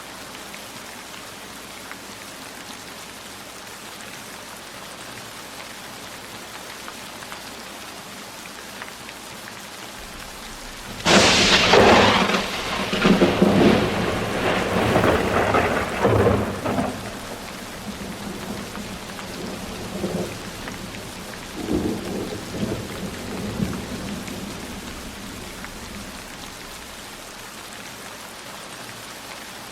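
Steady rainfall hiss, broken about a third of the way in by a sudden loud thunderclap that rolls on in rumbles for over ten seconds, swelling once more before dying away into the rain.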